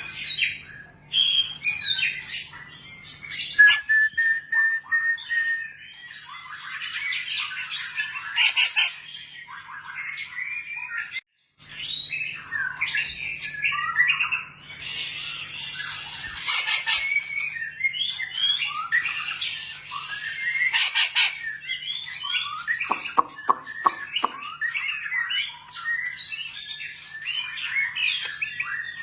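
White-rumped shama (long-tailed magpie robin) singing a long, varied song of whistled phrases, pitch glides, fast trills and rattling notes, with a brief break about eleven seconds in.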